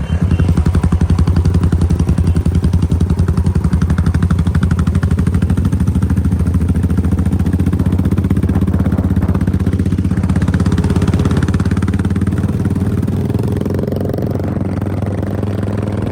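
Single-cylinder Royal Enfield Bullet engine running steadily through a megaphone exhaust, a fast even beat of low-pitched firing pulses. It starts abruptly and eases slightly near the end.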